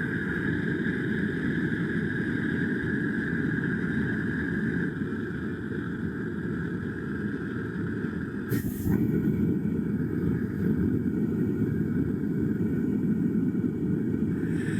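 Furnace burner firing steadily, a low rushing noise with a faint high whistle that fades about five seconds in. A single sharp click comes about eight and a half seconds in.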